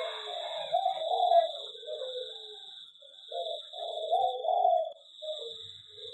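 Zebra doves (perkutut) cooing in repeated, warbling phrases that overlap, with a short lull partway through. A steady high-pitched whine sounds underneath.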